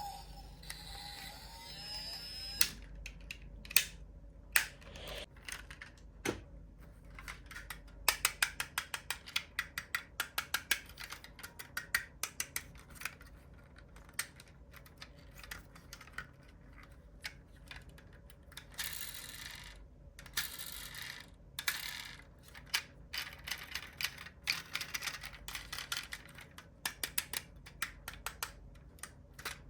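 Small plastic-and-metal clicks and rattles of diecast model cars being handled, with a quick, even run of ticking clicks from about eight to thirteen seconds in.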